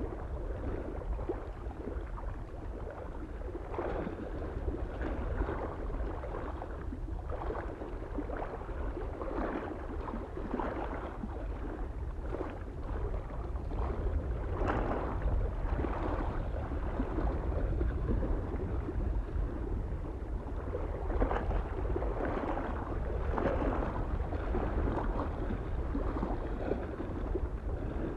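Small waves lapping and splashing irregularly on a lake shore, over a low, steady rumble of wind on the microphone.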